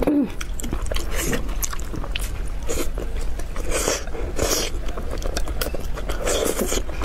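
Close-miked biting and chewing of braised pork in a thick sauce, with irregular mouth noises, over a steady low hum.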